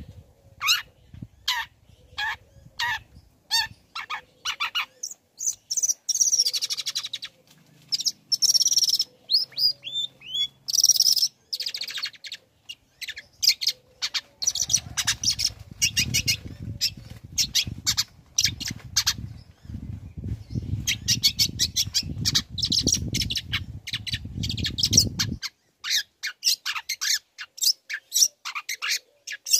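Long-tailed shrike (cendet) singing: a run of sharp, clipped notes about two a second, then bursts of varied warbling and rapid chattering. A low rumbling noise runs underneath through the middle part.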